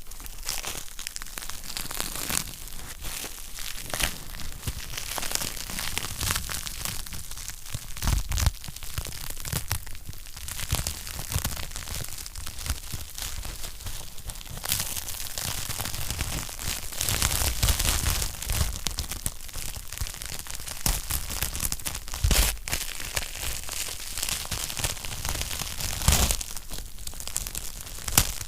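Wood fire crackling in a fireplace: a dense, continuous patter of small snaps and pops, with a few louder pops scattered through.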